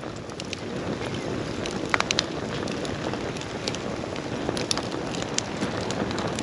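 Wood campfire burning: a steady rushing noise with frequent sharp crackles and pops, including a few louder pops about two seconds in.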